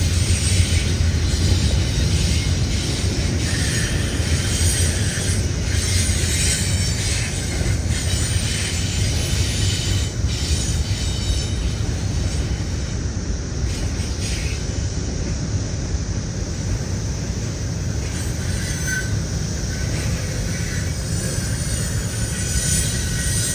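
BNSF intermodal train's cars rolling past on the rails, a steady rumble with faint high wheel squeals now and then.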